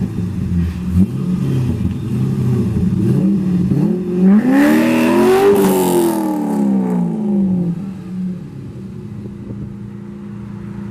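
A car engine revving: a few short blips of the throttle, then one long rev that climbs and falls back between about four and eight seconds in, before settling to a steady idle.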